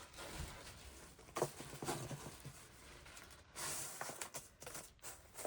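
Someone moving about and handling things indoors: a few soft knocks or footsteps about a second and a half in, then a brief rustle of handled material.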